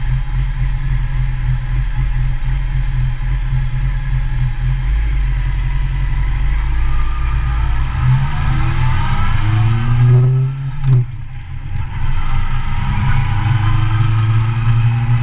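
Motorcycle engine running steadily, then pulling away: its pitch rises from about eight seconds in, dips briefly at a gear change, and rises again.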